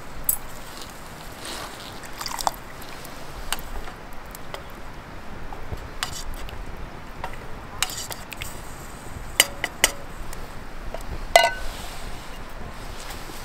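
Metal camp cookware and utensils clinking and knocking now and then, the loudest knock, near the end, ringing briefly, over a steady rushing background.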